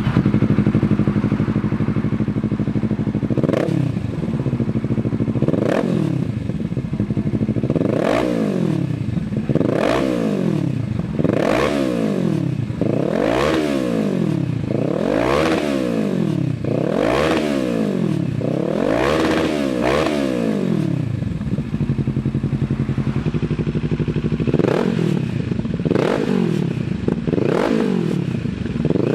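Kawasaki Z650 parallel-twin engine breathing through a Dynamic DM-2 aftermarket exhaust, revved in a series of quick throttle blips one to two seconds apart, each rising and then falling back toward idle. It settles at idle for a few seconds past the middle, then the blips start again.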